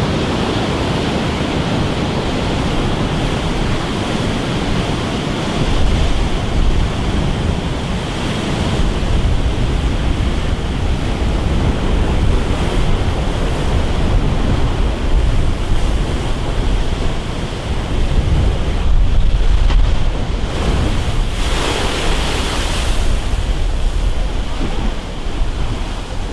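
Storm-driven sea waves surging and crashing, with strong wind buffeting the microphone into a low rumble. The swells rise and fall, with a louder hissing surge late on.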